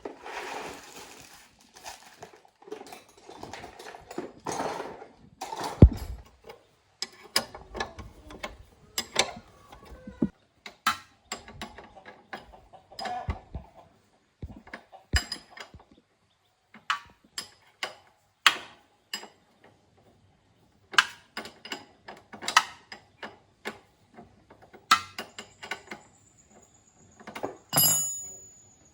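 Hand tools and metal parts clinking and knocking irregularly while a motorbike wheel's inner tube is changed, with a brief hiss at the start and a thin high whistle near the end.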